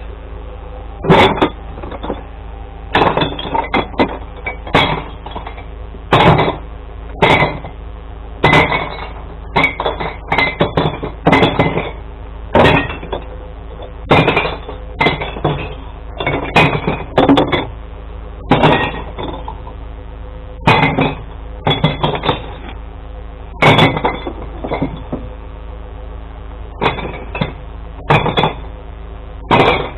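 Glass bottles smashing one after another, about twenty sharp crashes at uneven intervals, as they are thrown into a glass recycling truck, over a steady low hum.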